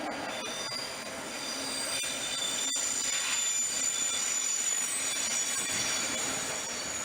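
Iron ore train rolling slowly through a rail yard, its steel wheels squealing on the rails in several high, steady tones that swell a little in the middle.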